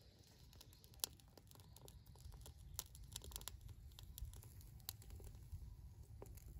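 Burning bamboo crackling, with irregular sharp snaps and pops over a low, steady rumble; the sharpest snap comes about a second in.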